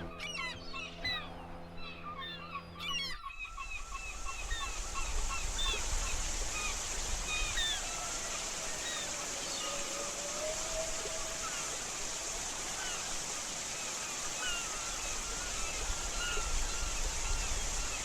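Jungle soundscape: a steady high-pitched insect drone over many short, overlapping bird and frog chirps, with a low rumble underneath. At the start a low humming drone of several steady tones and fast trills runs, then cuts off suddenly about three seconds in.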